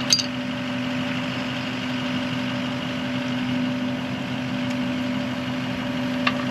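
An engine idling with a steady hum, with a sharp click just at the start and a smaller click near the end.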